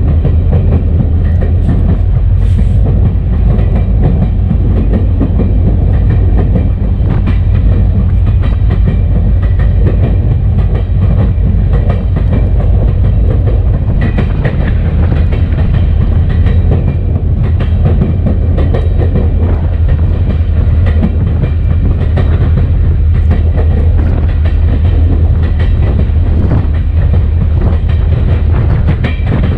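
EMD SD40-2 locomotive's 16-cylinder two-stroke diesel running steadily as it rolls down the track, heard from a camera on its short nose: a loud, continuous low drone with scattered clicks from the wheels on the rail.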